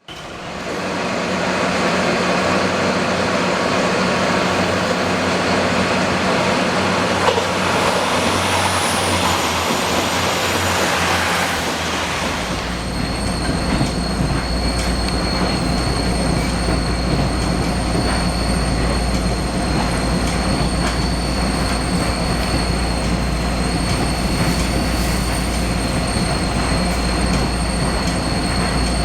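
A passenger train running along the track at close range, with a continuous rolling rumble. About twelve seconds in the sound changes abruptly to a deeper rumble, with two steady high-pitched whines.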